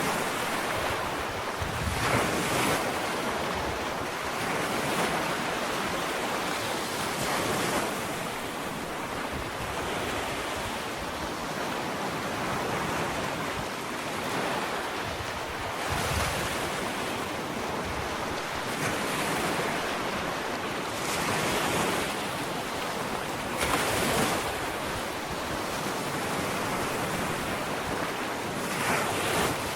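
Ocean waves breaking and washing onto a sandy beach: a steady surf hiss, with a wave rising and breaking every few seconds.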